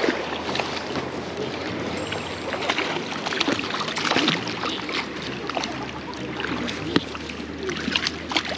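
Rushing river water with frequent small splashes, steady throughout, over a faint low hum.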